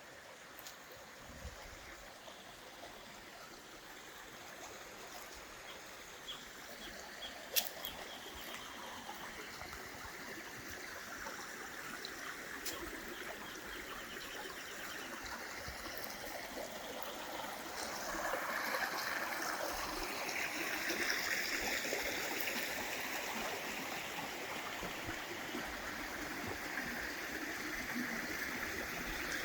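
Creek water running and splashing over rocks, growing steadily louder as it gets closer, with a few sharp clicks in the first eight seconds.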